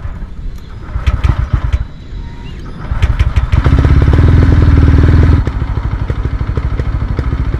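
TVS Ronin's 225 cc single-cylinder engine cranking on the electric starter with the fuel tank almost empty. It catches about three seconds in and runs loudly for a couple of seconds, then settles to a quieter, even idle on the last of the fuel.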